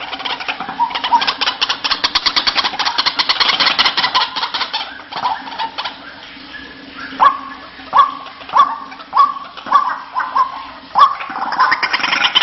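White-breasted waterhen (ruak-ruak) calling: a fast rattling chatter for about five seconds, then after a short pause a string of about seven falling notes, a little over half a second apart.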